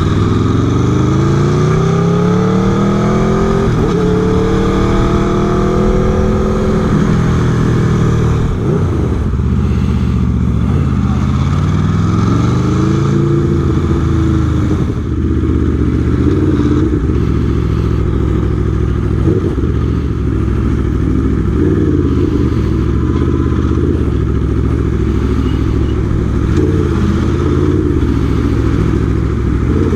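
Aprilia Tuono V4 motorcycle's V4 engine under way. It revs up hard in the first few seconds, eases off, and then rises and falls again several times with the throttle.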